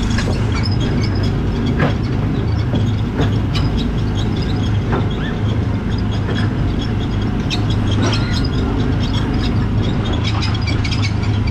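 Small gasoline engine of an Autopia ride car running steadily under way, heard from inside the car, with scattered clicks and knocks as the car rattles along the track.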